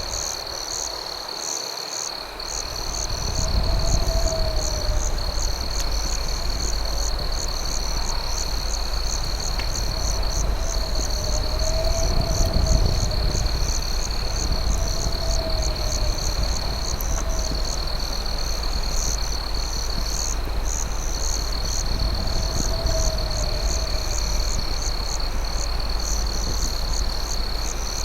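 Night chorus of crickets: a steady high trill with rhythmic chirping on top, about two chirps a second. A lower call rises and falls every few seconds, over a steady low rumble.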